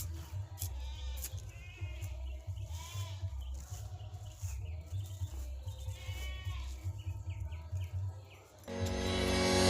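Goats bleating several times over a low rumble. Near the end, piano music comes in and grows louder.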